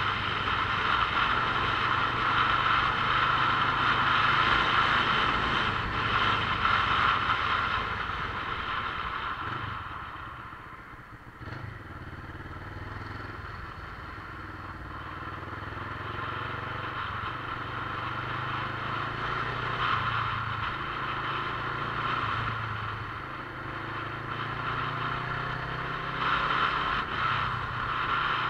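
Motorcycle running while riding, with the engine's low note under steady rushing noise. It eases off about ten seconds in, then picks up again with revs rising and falling.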